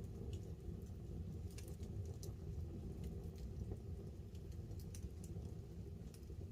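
Wood campfire burning, with scattered sharp crackles and pops of the wood over a steady low rumble, and light rain pattering on a tarp overhead.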